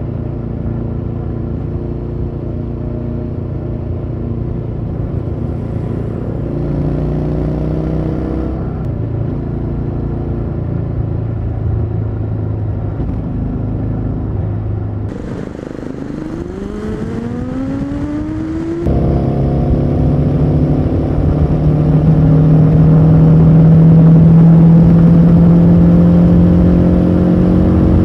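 Harley-Davidson Street 750's V-twin engine running through its stock exhaust while under way. It holds a steady cruise, falls away about fifteen seconds in, then climbs in pitch as it accelerates. From about nineteen seconds it is suddenly louder, its pitch creeping up slowly as it pulls.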